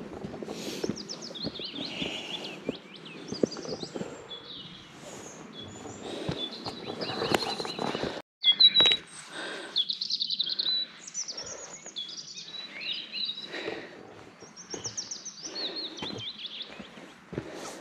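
Several small songbirds chirping and trilling in quick, overlapping phrases, over irregular footsteps on a forest trail. About eight seconds in the sound cuts out for a moment, then comes a short, louder thump.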